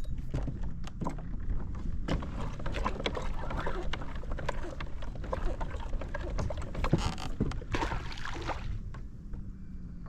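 Irregular water splashes, clicks and knocks around a fishing kayak as a hooked flounder is fought and brought in, over a steady low rumble. Two louder splashy bursts come about two-thirds of the way through.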